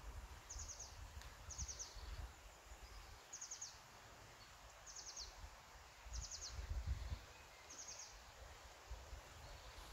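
A small songbird repeating a short, high phrase of four or five quick notes about once a second, over a faint low rumble.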